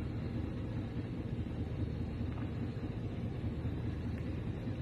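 Steady low rumble of riding a bicycle on a woodland trail: wind buffeting the microphone and the tyres running over the ground.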